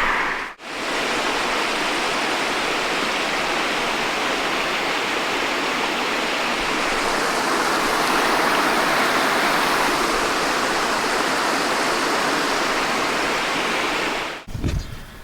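Steady rushing water, an even hiss that starts abruptly about half a second in and stops abruptly near the end.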